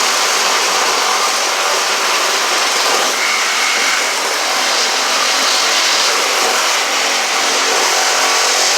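A power tool running steadily and loudly, cutting through building material during demolition.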